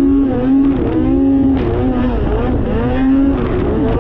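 Two-stroke snowmobile engine being revved up and down over and over, its pitch rising and falling roughly every half second.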